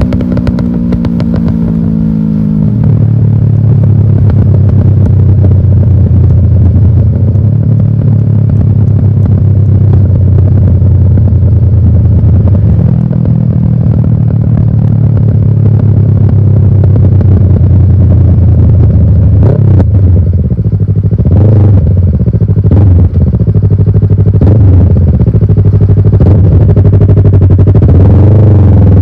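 Yamaha R6 inline-four engine through an aftermarket exhaust, dropping from a rev to a steady idle in the first few seconds and running loud and even. It is blipped a few times a little past two-thirds of the way in and revs up again at the end.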